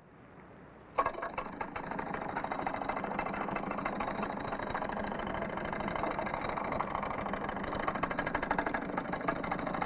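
Cartoon sound effect: a steady, rapid machine-like rattle, like a motor running, that starts suddenly about a second in. It goes with Woody Woodpecker's ride down a pole.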